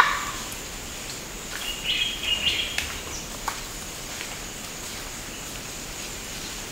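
Forest birds chirping in short bursts about two seconds in, over a steady high hiss. A sharp click comes right at the start, and a few faint ticks follow.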